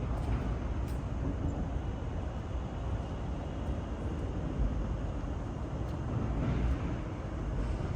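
Steady low rumble of a vehicle running, with faint clicks about a second in and near the end.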